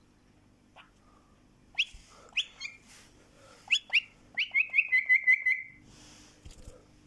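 Pet bird calling: four sharp upward chirps, then a quick trill of about eight notes that falls slightly in pitch.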